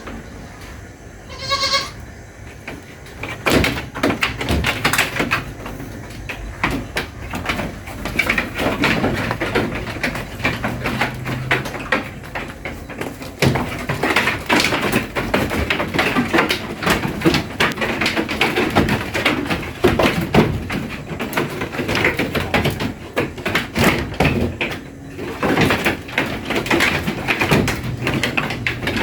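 Goats bleating and moving about, with many knocks and rustles throughout and a short pitched call about a second and a half in.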